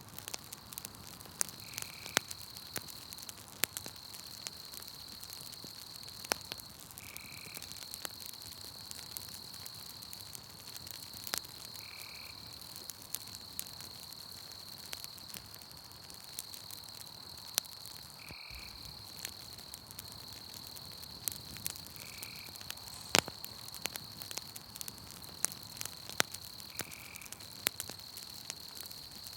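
Campfire crackling, sharp pops scattered irregularly, over a steady high trill of night insects. A short higher call repeats about every five seconds.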